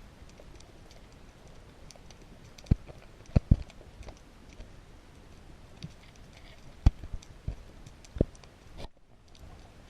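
Underwater sound: a scatter of faint sharp clicks over a low hiss, with a handful of much louder knocks, two close together about three and a half seconds in and several more between about seven and eight seconds.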